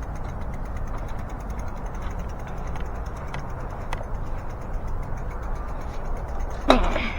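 A bicycle being handled and wheeled into place: faint rapid freewheel ticking over a low rumble of handling noise, then one sharp clank near the end.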